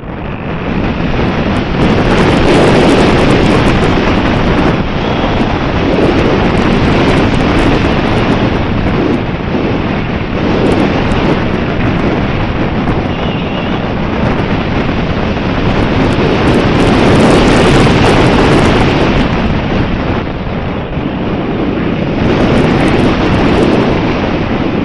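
Strong wind buffeting the microphone: a loud, rushing rumble that swells and eases in gusts every few seconds.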